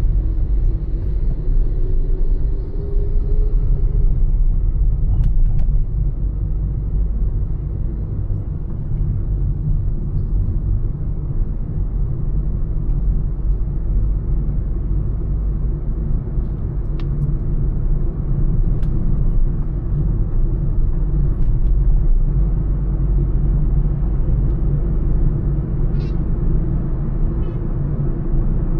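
Honda Elevate at highway speed: a steady, low rumble of road and engine noise. A faint engine tone rises over the first few seconds.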